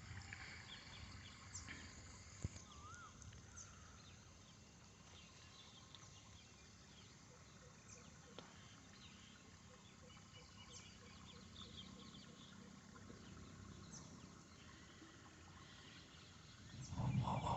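Faint outdoor ambience with many short, high chirps of small animals scattered throughout, and one sharp click about two and a half seconds in. A louder low sound comes in near the end.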